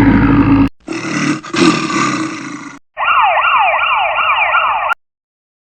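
Two stretches of loud rumbling noise, then an electronic siren wailing in fast repeating rising sweeps for about two seconds, which cuts off suddenly.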